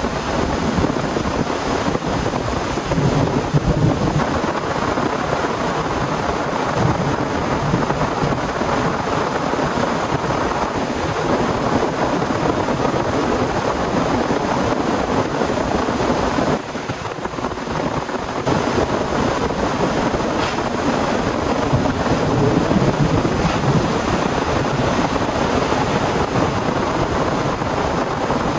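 Heavy storm rain with gusting wind, a steady loud rush that dips briefly a little past halfway.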